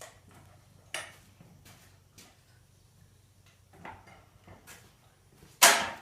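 Irregular metal clanks and clinks from a jack being worked into position, a handful of sharp knocks with one much louder clank near the end.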